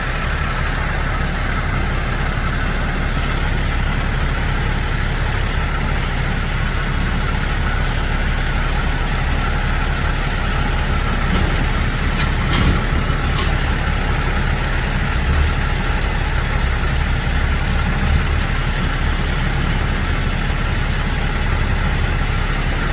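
Large diesel truck engine idling steadily, with a few short clicks about halfway through.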